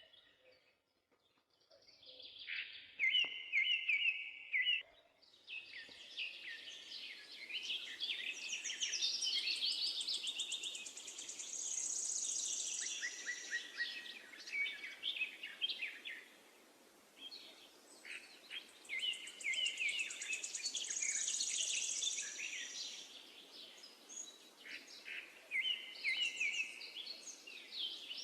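Songbirds chirping and trilling in quick, overlapping phrases, over a steady background hiss that comes in about five seconds in.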